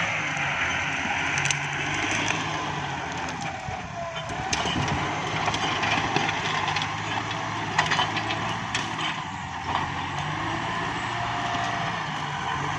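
Kubota MU5702 tractor's diesel engine running steadily under load, with a sharp crack of wood about a second and a half in and several more between about four and nine seconds in, as it pushes down woody clumps.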